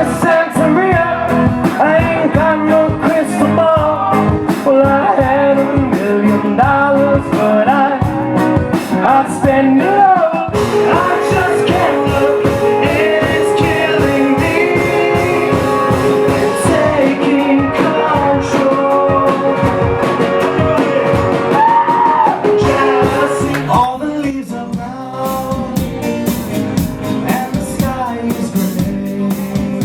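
Live rock band playing with a lead singer over a steady drum beat. The music cuts abruptly to a different passage about ten seconds in, and changes again, a little quieter, about two-thirds of the way through.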